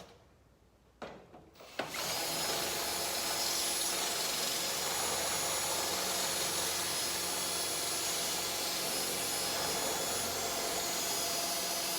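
Electric drill running steadily for about ten seconds, starting about two seconds in after a couple of clicks, drilling out a rivet that holds a caravan's exterior panel.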